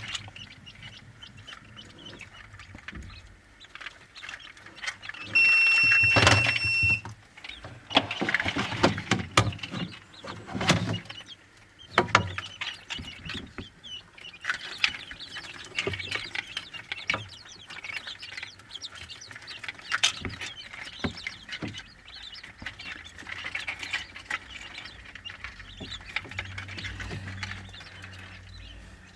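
Farmyard chickens with rustling and irregular knocks, and a short, loud, steady high tone about six seconds in.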